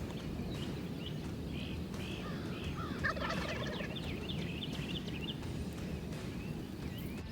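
Wild turkey gobblers gobbling, the strongest gobble about three seconds in.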